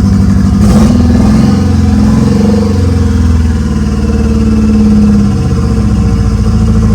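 Swapped-in Renault Megane R26 four-cylinder engine running steadily and a bit rough, its note rising slightly a second or two in and then settling. It is running with its second fuel injector unplugged, which the owner takes for why it doesn't sound right.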